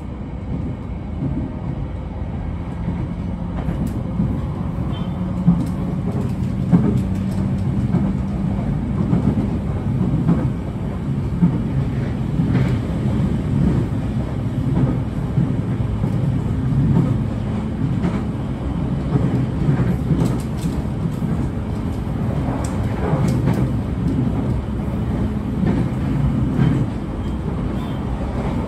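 Running noise of an Abukuma Express AB900-series electric train, which carries Mitsubishi IGBT-VVVF traction equipment, heard inside the carriage: a steady low rumble of wheels on rail, with scattered sharp knocks from the rails.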